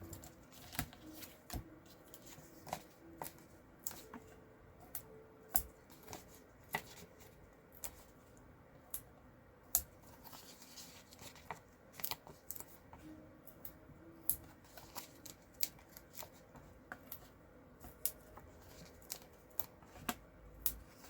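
Hands handling cardstock pieces, with scattered, irregular small clicks, taps and rustles of paper as card layers are fitted with foam adhesive dimensionals and pressed in place.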